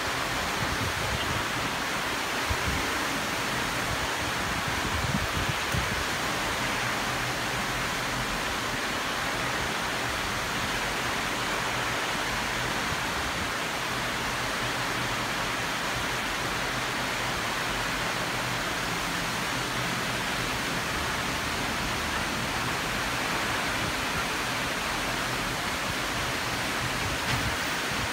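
Heavy rainstorm downpour: a steady, even hiss of driving rain.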